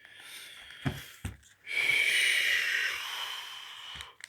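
The worn seat's cover being cut or torn open to remove a damaged piece: two short knocks about a second in, then a long, scratchy, squeaky tearing sound lasting about two and a half seconds.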